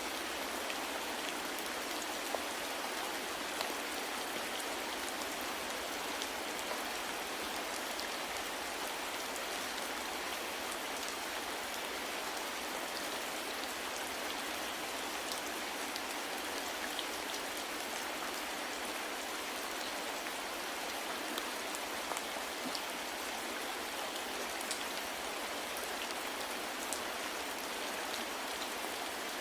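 Steady soft rain falling, an even hiss with scattered individual drops ticking.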